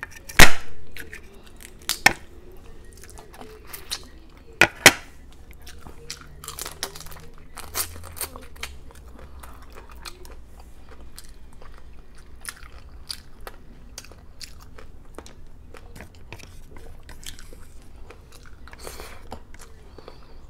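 Close-up eating of garlic butter shrimp and crab: biting, crunching and chewing with a run of sharp cracks and clicks. The loudest crack comes about half a second in, with others about two seconds in and a close pair near five seconds, then smaller clicks.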